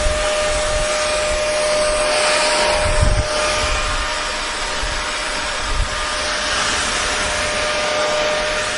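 Hair dryer running steadily: a continuous blowing hiss with a constant motor hum.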